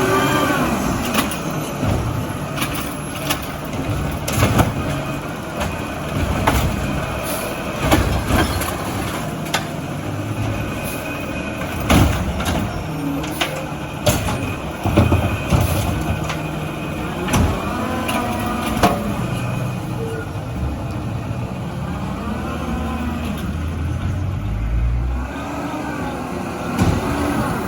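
Diesel engine of an Autocar ACX garbage truck with a Bridgeport Ranger body, running and revving up and down several times, as a garbage truck's engine does to drive its hydraulics. Sharp metallic bangs and clanks break in every few seconds.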